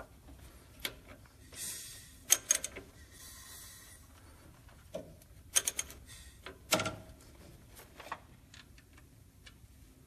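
Metal clinks, knocks and short scrapes as a new timing chain and gears are worked onto an engine's camshaft and crankshaft, the gears being jiggled until they slip into line.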